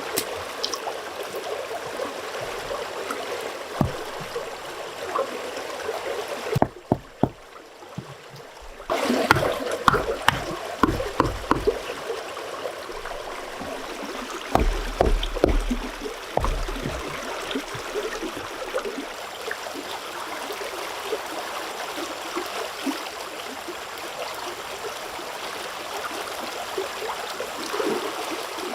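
Stream water running steadily, with a scattered series of knocks and thuds through the middle stretch.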